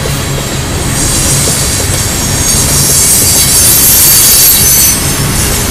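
Freight train of oil tank cars rolling past on a curve: a steady rumble of wheels and cars, with a high wheel squeal from the wheel flanges rubbing the curved rail that swells about a second in and dies away near the end.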